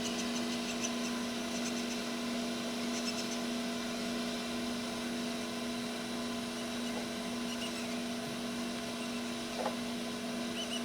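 Egg incubator's motor humming steadily with one strong low tone and several higher overtones, while it incubates parakeet eggs.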